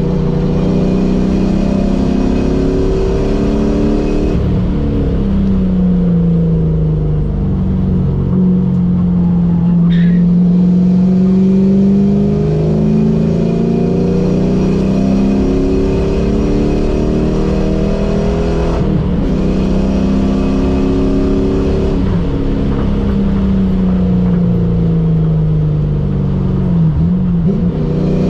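Ford Mustang SN95 engine heard from inside the cabin under hard track driving. Its pitch climbs through the revs and drops again several times as it accelerates, shifts and slows for corners. There is a brief high squeal about ten seconds in.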